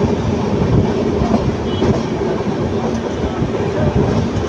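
Moving passenger train heard from aboard a coach: a steady rumble of the wheels on the rails.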